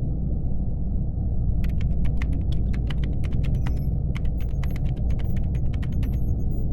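Laptop keyboard typing: a run of quick clacks that starts about a second and a half in and stops near the end, over a steady low hum.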